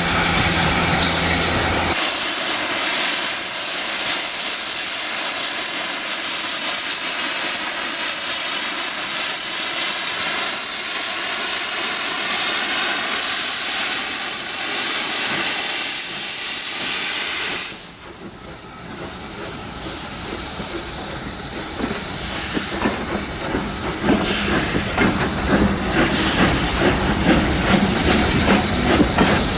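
Steam locomotive blowing off steam with a loud, steady hiss that cuts off suddenly about 18 seconds in. After it a train is heard moving, its rattle growing louder toward the end.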